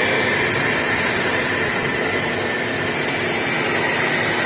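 Craftsman CMXEVBE17595 16-gallon wet/dry shop vac running steadily, a constant rush of air with a thin high tone. Its exhaust baffle is not fitted, so the exhaust blows straight out.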